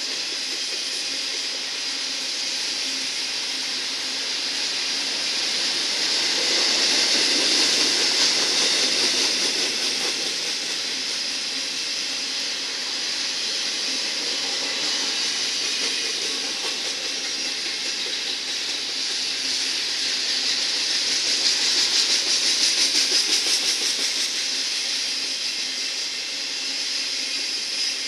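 Freight train of autorack cars rolling past: a steady rolling noise of steel wheels on rail. It grows louder about seven seconds in and again around twenty-two seconds in.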